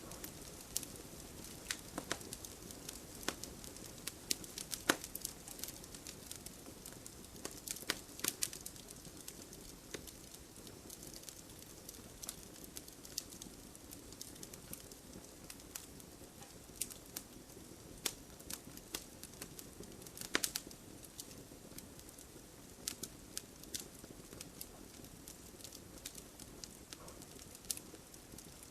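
Wood fire burning in a fireplace: a soft steady hiss with irregular sharp pops and crackles of burning logs.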